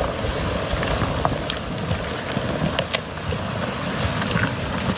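Floodwater rushing down a creek in a steady roar, with scattered sharp clicks and knocks through it.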